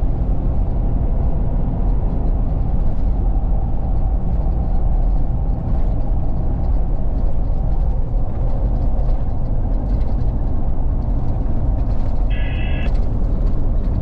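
A vehicle driving at road speed: steady loud low rumble of engine, tyre and wind noise, with a short high tone about twelve seconds in.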